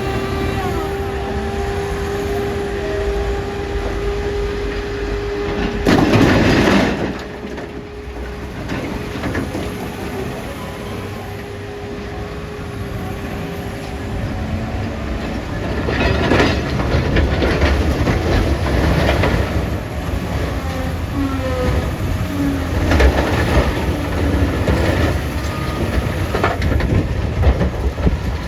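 Heavy diesel loader engine running under load, with a steady whine through the first half. Loud crashing bursts of rock on steel, one about six seconds in and several more in the second half, as large rocks are loaded into a dump truck.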